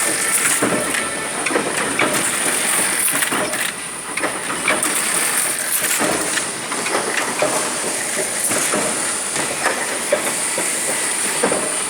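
Sugano die-cutting machine running, a continuous mechanical clatter of knocks and clicks over a steady high hiss.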